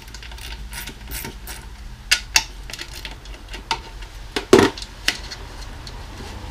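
Small metal drum hardware (lug screws and lugs) clicking and clinking as it is taken off a tom shell and set down, with one louder knock about four and a half seconds in.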